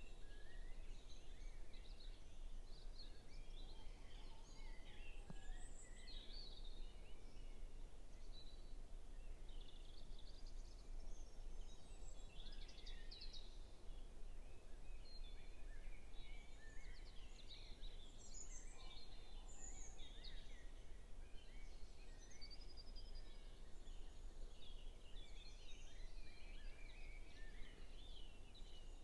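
Dawn chorus: many songbirds singing over one another in short trills and phrases, faint and distant through a phone's microphone, over a steady low background noise.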